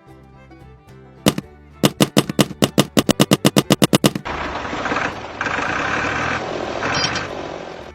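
Background music, with a rapid run of sharp clicks that speeds up, like gunfire, followed by a steady rasping noise lasting about three and a half seconds.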